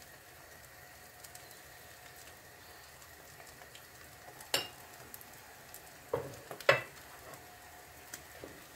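Grated potato and egg omelette frying gently in a pan, a faint steady sizzle. There are a few sharp knocks in the second half, the last the loudest.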